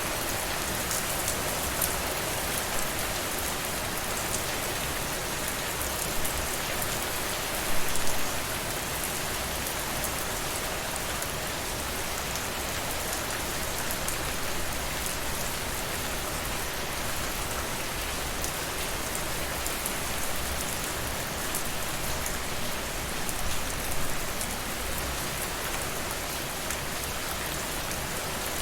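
Steady rainfall, drops hitting a surface in a continuous even hiss with fine ticks of individual drops. There is a brief louder burst about eight seconds in and a smaller one near the end.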